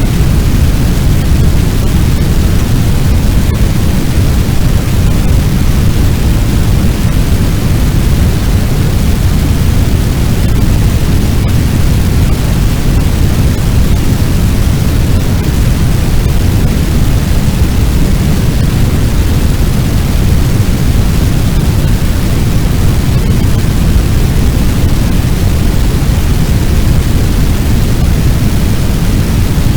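Fire sound effect of a large blaze burning: a steady, loud low rumble with an even hiss above it, unchanging throughout.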